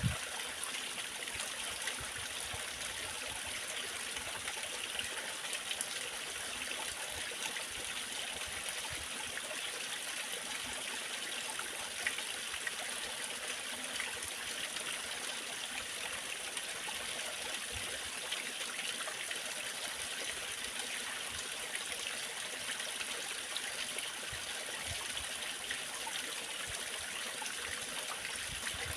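Waterfall water running steadily: an even, unbroken rush of water, brightest in the upper range with little low rumble.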